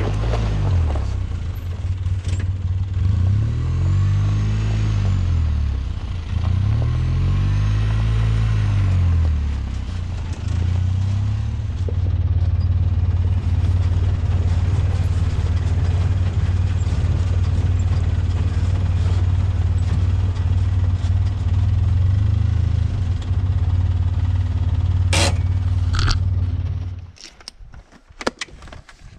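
Vehicle engine running, its pitch rising and falling twice as it speeds up and slows, then holding steady before it shuts off suddenly near the end.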